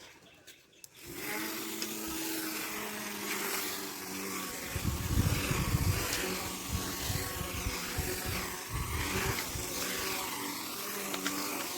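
Small electric RC motor spinning the rotor of a homemade plastic-bottle helicopter, starting up about a second in and then running with a steady whine. Low rumbling thumps come and go in the middle.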